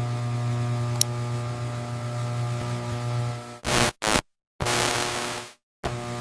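Steady machine hum made of several even tones, with one sharp click about a second in. After about three and a half seconds it cuts abruptly to bursts of hiss broken by two short dead-silent gaps, and the hum returns briefly near the end.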